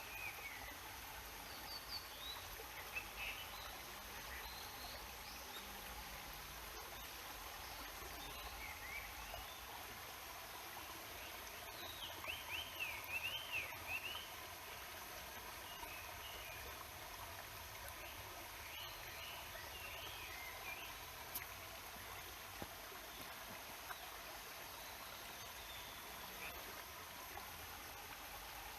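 A stream flowing steadily, with a small bird singing short chirping phrases now and then, a quick run of chirps about halfway through.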